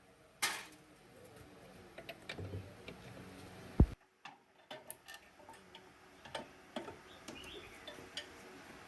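Irregular light clicks and taps of hand work, with a sharper clack about half a second in and one loud, low thump just before four seconds in.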